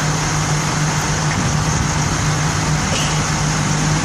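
A vehicle engine running steadily at a constant low pitch under an even haze of road-traffic noise.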